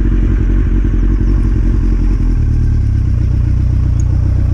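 Yamaha FZS1000 motorcycle engine running at low revs just after being started, its note changing a little over two seconds in as the bike moves off slowly.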